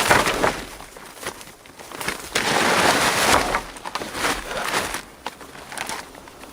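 Crunching and rustling noises, with a loud crunch at the start and a longer rustle from about two to three and a half seconds in.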